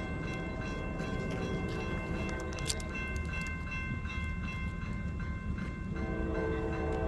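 Norfolk Southern freight train rolling past: a steady low rumble of the cars with scattered wheel clicks and a steady high ringing tone. About six seconds in, a horn begins to sound.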